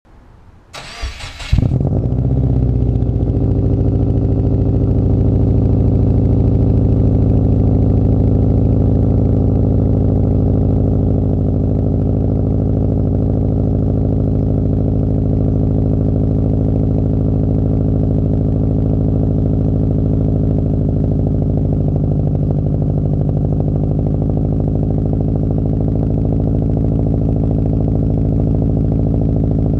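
2014 Subaru Impreza WRX's turbocharged flat-four, fitted with equal-length headers, a Cobb downpipe and an Invidia N1 dual-tip cat-back exhaust, cold-started: a brief crank, catching about a second and a half in, then a steady cold idle.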